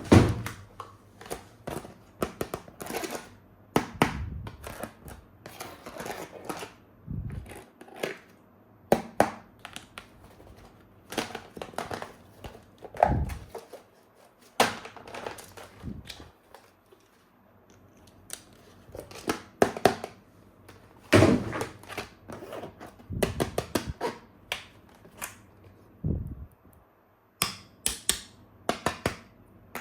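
Plastic toy weapon parts and packaging being handled: irregular clicks, knocks and light thuds, some in quick clusters and some spaced apart.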